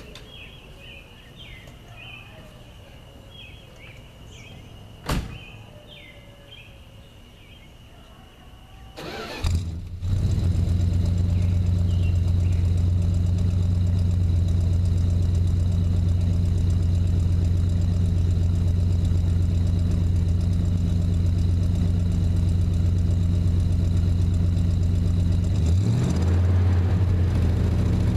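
Birds chirping and a single sharp knock, then about nine seconds in the 1974 Plymouth's V8 is cranked and catches, settling into a steady idle through Dynomax Super Turbo mufflers on a new dual exhaust. Near the end the engine is revved, its pitch rising and falling.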